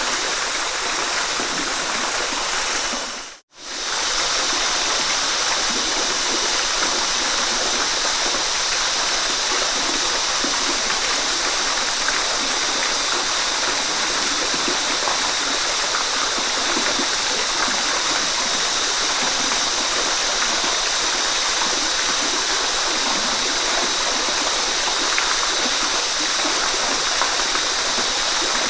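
Waterfall rushing, a steady even hiss of falling water. The sound dips out for a split second about three and a half seconds in, then returns unchanged.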